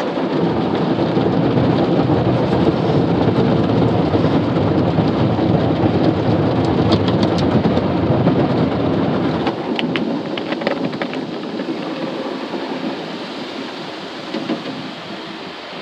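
Automatic car wash spraying water onto a truck, heard from inside the cab: a loud, steady rushing and drumming on the body that slowly fades over the last several seconds.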